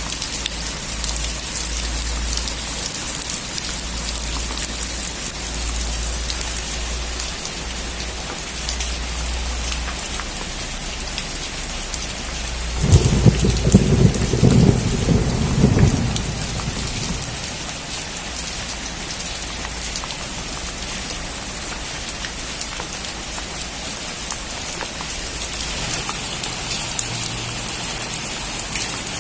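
Heavy rain drumming on a metal roof, with a loud clap of thunder rumbling for about three seconds near the middle.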